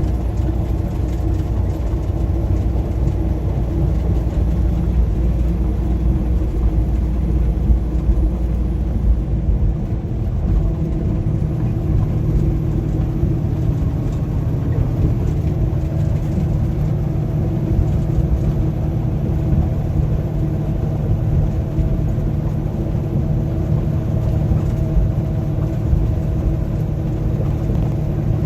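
A road vehicle driving: steady engine and road rumble. About ten seconds in, the low engine drone shifts up in pitch and holds there.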